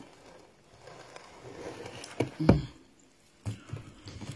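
A person chewing a mouthful of rice and fish: soft, quiet chewing and mouth sounds, with a sharp click and a short, louder mouth sound a little over two seconds in.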